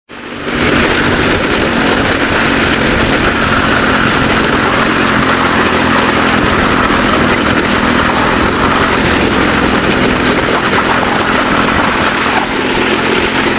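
A car driving on a gravel road: steady loud engine hum under a continuous rush of tyre and gravel noise.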